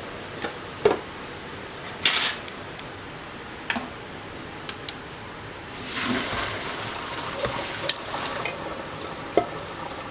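A metal utensil clinking, knocking and scraping against a pot of boiled pasta as the cooking water is scooped out, then from about six seconds in a steady hiss of water being poured off, with a few more clinks.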